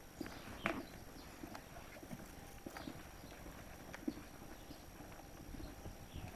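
Footsteps on a hard street surface: faint, irregular knocks and scuffs of people walking, the loudest about two-thirds of a second in.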